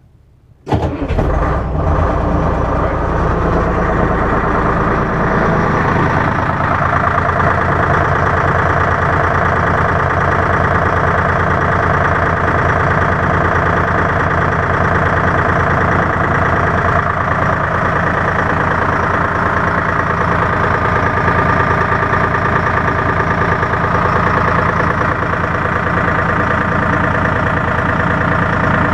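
M561 Gama Goat's three-cylinder Detroit Diesel 3-53 two-stroke diesel cold-starting after months of sitting. It cranks briefly, catches under a second into the start, then settles into a steady idle.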